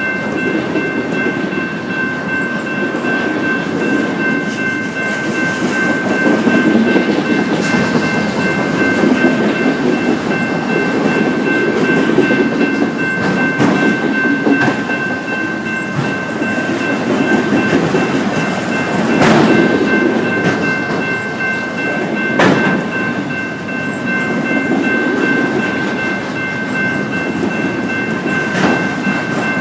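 Freight train cars rolling past, a continuous rumble of wheels on rail with a steady high-pitched ringing over it and a few sharp knocks near the end.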